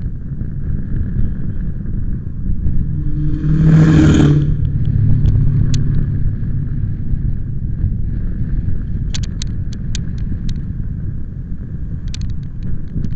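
Wind buffeting the microphone as a steady low rumble. About four seconds in there is a louder swell with a low hum, and later come a few sharp clicks.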